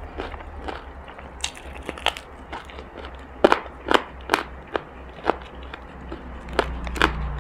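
Close-up mouth sounds of biting and chewing crispy fried chicken batter: a string of sharp crunches, most of them in the second half, over a low steady hum.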